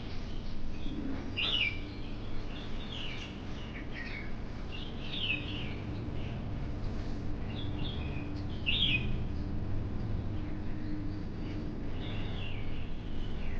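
Birds chirping: short, high, falling calls every second or two, over a steady low background rumble.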